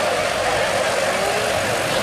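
Vehicle engine noise, steady and even, with no sharp changes.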